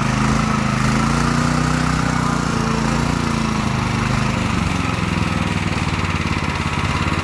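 Small engine running steadily on the mower, its newly fitted replacement. The engine speed wavers slightly, then settles a little lower about four to five seconds in.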